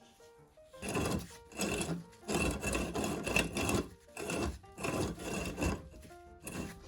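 Repeated abrasive rubbing strokes, about eight back-and-forth passes of a few tenths of a second each, typical of brushing or filing rust off a metal pump part. Background music plays underneath.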